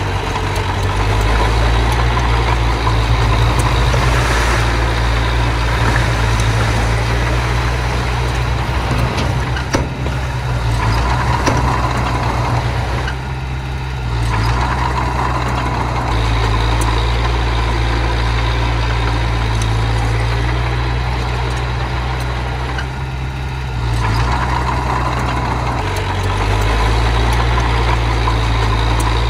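Heavy earth-moving machine's engine running steadily with a deep drone, its note shifting a few times as the load changes and easing briefly about 13 and 23 seconds in, with a few scattered clicks and knocks.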